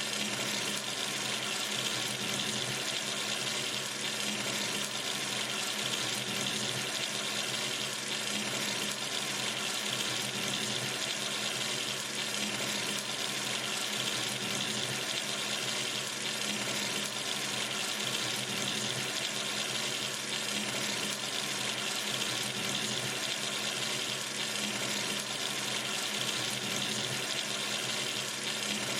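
Water running steadily from a sink tap, an even unbroken splash and hiss that stays the same throughout.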